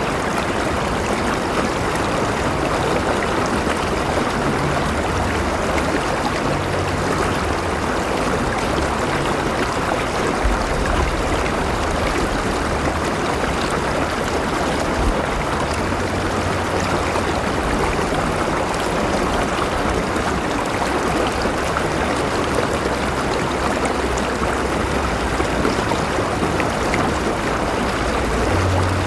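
River water flowing steadily, a continuous rushing and burbling with a low rumble underneath.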